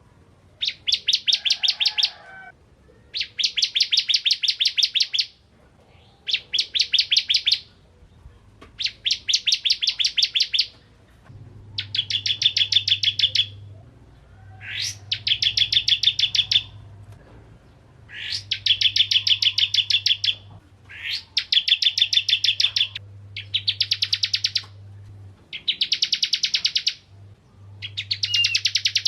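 Ciblek kristal (a prinia) singing: a string of bouts, each a rapid, even trill of high, sharp notes lasting one to two seconds, repeated after short pauses.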